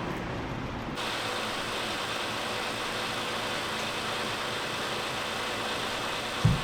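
Steady hiss and hum of a running vehicle. It shifts to a brighter hiss about a second in, and there is a single dull thump near the end.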